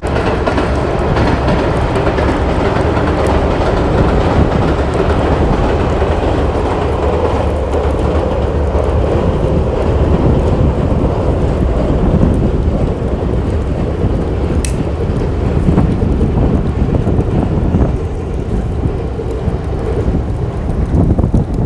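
Wind buffeting the microphone: a loud, steady rumble, with a single sharp crack about fifteen seconds in.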